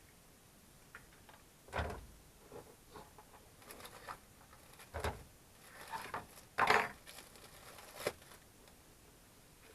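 Irregular handling noises of camp cooking gear and food being prepared: a few knocks and rustles, the loudest about two seconds in and again between six and seven seconds.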